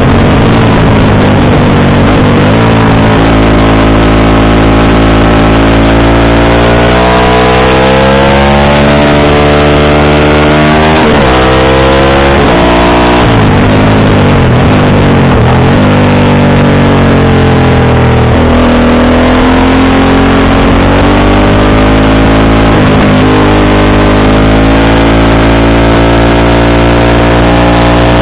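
Motorcycle engine and exhaust under way, loud: the note climbs steadily through the revs and drops sharply several times at gear changes or throttle lifts, then climbs again.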